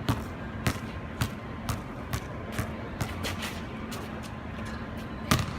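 Basketball being dribbled on a wet outdoor court, bouncing about twice a second, with a harder bounce near the end.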